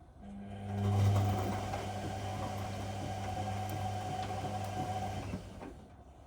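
Whirlpool washing machine's drum motor running through a wash-cycle tumble: a steady mechanical hum that starts just after the beginning, swells for about a second, holds, then stops near the end.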